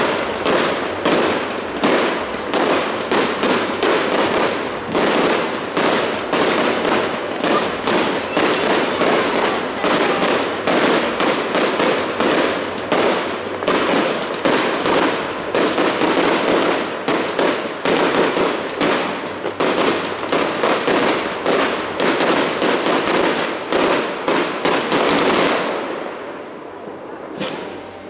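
Fireworks display: a dense, rapid run of bangs and crackling from bursting aerial shells, several reports a second, dying down near the end.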